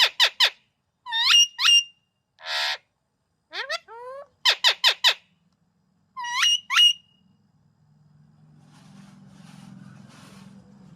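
Parrot giving quick rising squeaky whistles in clusters of three or four, with a short raspy squawk about two and a half seconds in. The calls stop about seven seconds in, leaving a faint low hum.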